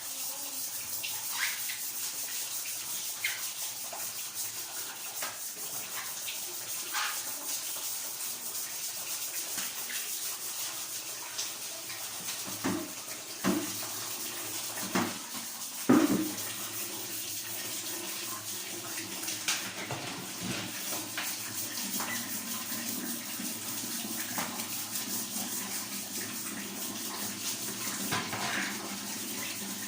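Water running steadily in a bathroom during cleaning, with a few sharp knocks around the middle.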